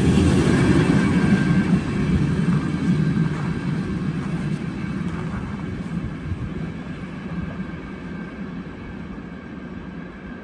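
Intermodal container freight train rolling past at speed, a loud steady rumble of wagons on the rails for about the first two seconds, then fading evenly as the end of the train draws away.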